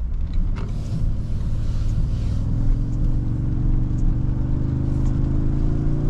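2023 Toyota Tundra's V6 hybrid engine pulling as the truck accelerates, its pitch rising steadily from about two seconds in, over steady road noise inside the cabin.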